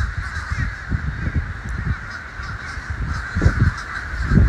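A large flock of crows and blackbirds calling all at once, a dense, continuous chatter, which the man takes for nervousness before an approaching rainstorm. A low rumbling noise runs underneath and grows louder near the end.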